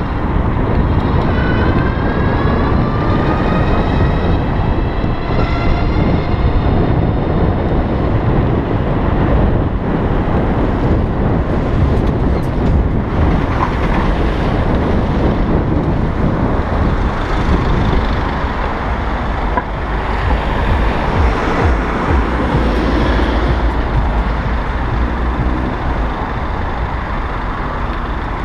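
Wind noise and road and traffic noise while riding an electric bike, with a rising whine over the first few seconds.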